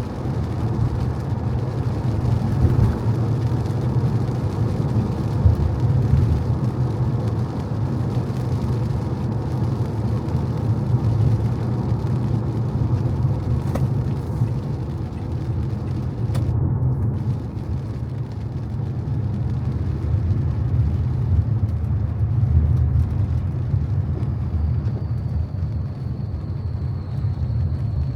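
Car driving on wet city streets: a steady low rumble of engine, road and tyres. A faint high whine comes in near the end.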